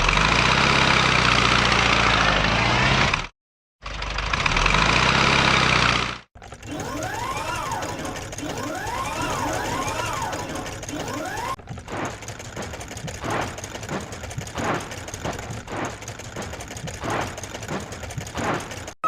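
Cartoon vehicle sound effects: two loud bursts of a motor-like rumble, broken by a short gap, then about five seconds of a wailing tone that rises and falls about once a second, then a run of scattered sharp clicks and knocks.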